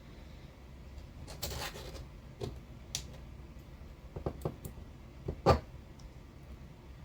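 Small RC car differential parts being handled on a workbench: a brief scrape about a second and a half in, then scattered light clicks and taps, the loudest about five and a half seconds in.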